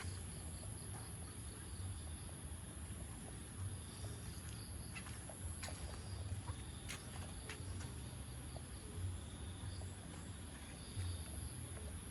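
Insects, crickets among them, chirring steadily in a high thin band, over an uneven low rumble, with a few faint clicks about halfway through.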